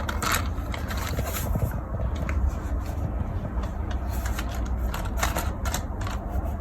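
Plastic toys being handled, giving irregular clicks and clatters over a steady low rumble.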